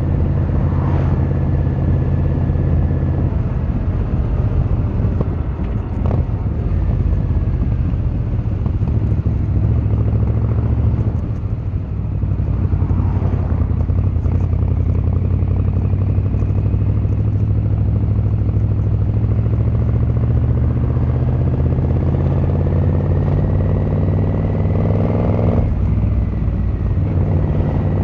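Yamaha XVZ1300 Royal Star's V4 engine and exhaust running under way. The engine note climbs as it pulls and drops suddenly at a gear change near the end, with a brief easing off the throttle about halfway through.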